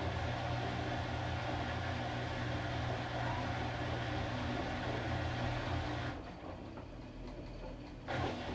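Washing machine motor running with a steady hum, cutting out about six seconds in and starting up again about two seconds later as the drum turns again.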